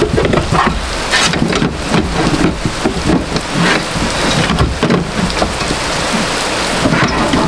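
Heavy rain pouring down in a steady dense hiss. Scattered short clicks and rattles come from the door wiring and window regulator being handled.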